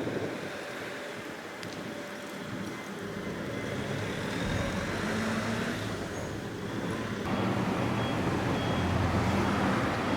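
Fukui Railway tram running along its line, a steady hum and rolling noise with some street traffic mixed in. The sound changes abruptly about seven seconds in, becoming louder with a stronger low hum.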